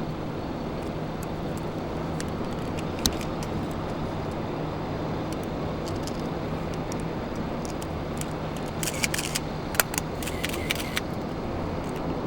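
Steady engine and road noise of a moving vehicle, with a low hum throughout. Light clicks and rattles come now and then, with a quick cluster of them near the end.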